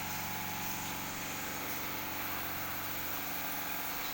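Steady motor hum with a constant hiss over it, unchanging throughout.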